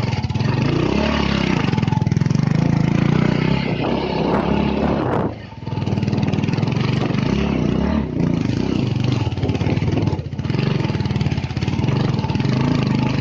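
Motorcycle engine running as the bike is ridden, with the revs dropping briefly a few times, most deeply about five seconds in.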